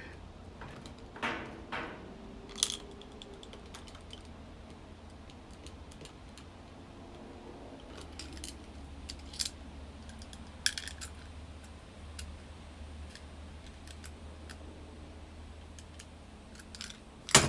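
Scattered small clicks and scrapes of a scalpel cutting and prying at the plastic housing of a washing machine door switch, spaced a few seconds apart with the sharpest click near the end, over a faint steady low hum.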